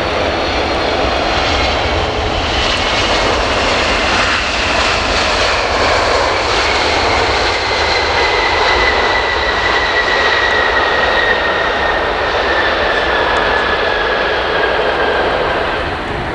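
Delta Boeing 767-300 jet engines as the airliner arrives and passes: a steady, loud rush of jet noise with a whine that slowly falls in pitch.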